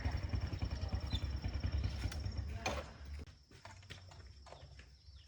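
A small engine running with a low, rapid rumble, which stops about two and a half seconds in at a sharp click. Faint scattered clicks follow.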